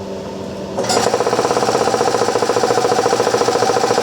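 Coltri MCH 6 electric high-pressure breathing-air compressor: a steady hum jumps about a second in to a loud, fast, even rhythmic chugging of the piston pump running.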